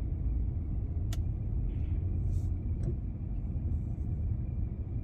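Steady low rumble of a car being driven, heard inside the cabin, with two brief clicks about one and three seconds in.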